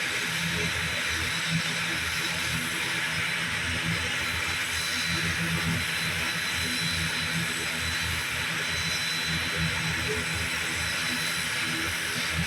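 ATR 72-600 turboprop running steadily: an even hiss with a thin, high, constant whine and a low flutter underneath.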